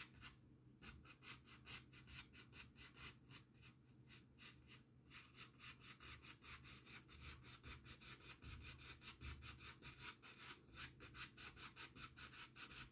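Faint brush scrubbing oil paint onto a canvas in quick, even strokes, several a second.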